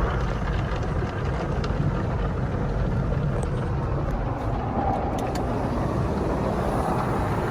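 Steady low rumble of a car's engine and running noise, heard from inside the cabin, with a few faint ticks in the middle.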